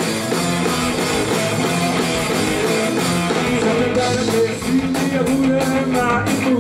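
Rock band playing a song, electric guitars to the fore, with drum hits coming through sharply from about four seconds in.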